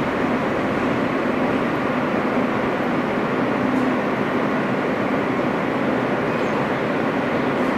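Steady rumble and hiss inside an R160 subway car, with a low, even hum underneath.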